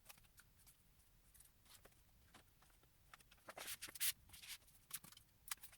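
Faint rustling, taps and clicks as the paper and cardboard pieces of a boxed photo-book set are handled and packed back into the box, sparse at first and busier from about halfway in.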